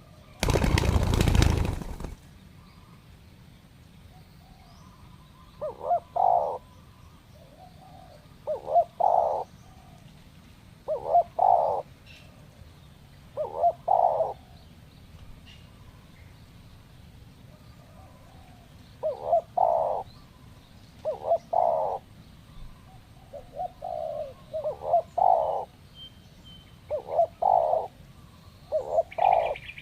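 Spotted doves cooing: short calls of two or three low notes, repeated every two to three seconds, with a pause of a few seconds midway. About half a second in, a loud burst of noise lasts about a second and a half.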